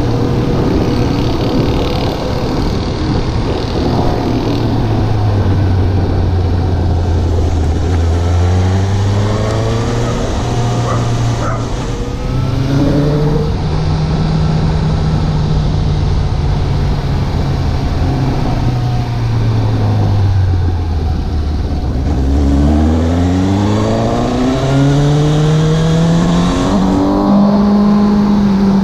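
Suzuki GSX750's inline-four engine under way, accelerating and easing off. The pitch rises, drops to a low point a little past halfway, then climbs again in steps through the gears near the end, over a steady rush of wind noise.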